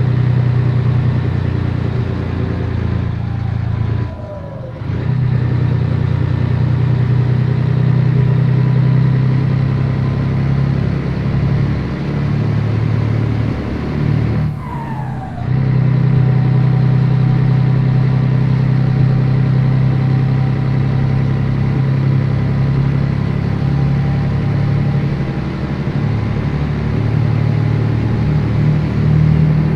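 Scania 113 truck's diesel engine running steadily under load. About four and fifteen seconds in it briefly drops off with a falling whine, then picks up again as the driver changes gear.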